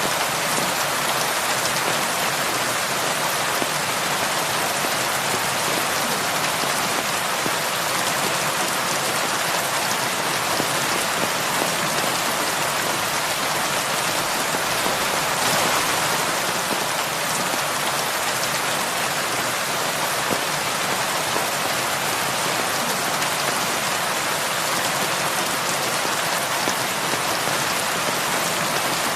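Heavy rain falling steadily on a roof, an even, unbroken patter.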